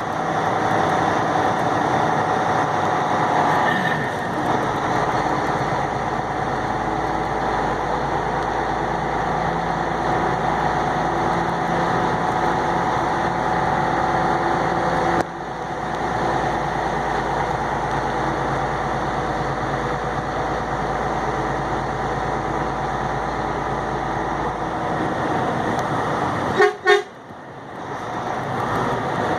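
A truck's engine runs steadily under road noise as it drives, with a brief dip about halfway through. Near the end, a horn toots twice in quick short blasts.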